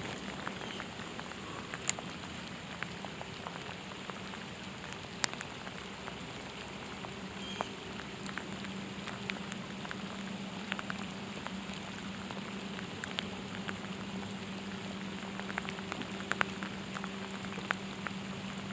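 Steady rain falling, with scattered sharp ticks of single drops hitting close by, over a faint steady low hum.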